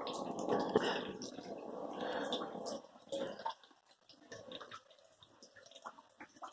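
Water trickling steadily, fading out about three seconds in, then scattered faint drips of light rain.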